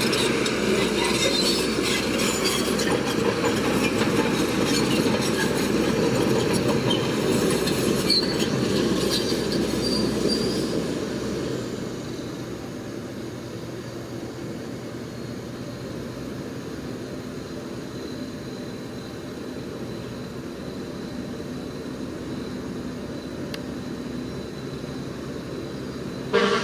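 Shantui crawler bulldozer running, with its steel tracks squealing and clanking. About ten seconds in it drops to a quieter, steady engine drone, and a short loud knock comes near the end.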